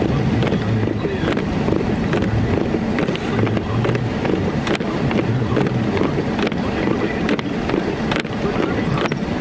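Steady low rumble of a car driving, heard from inside the cabin, with scattered sharp ticks at irregular moments.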